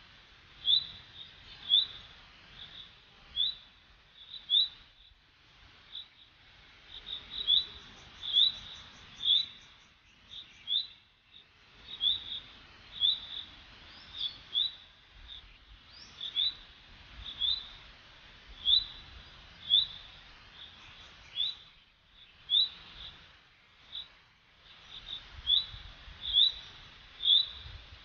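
A small bird chirping over and over: short, high chirps at one pitch, each rising slightly, about one a second and sometimes in quick pairs.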